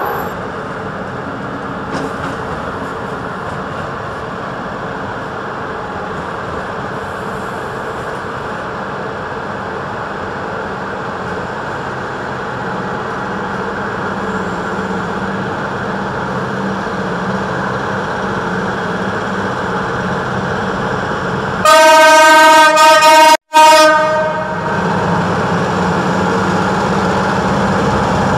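Train locomotive running with a steady rumble that slowly grows louder, then a loud locomotive horn sounds for about three seconds near the end, broken by a split-second dropout.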